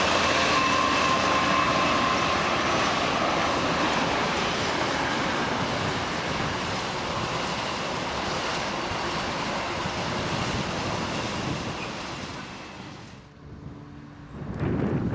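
A train running through the station: loud rail and engine noise with a whining tone that slowly dies away, cutting off about thirteen seconds in. A short burst of noise comes right at the end.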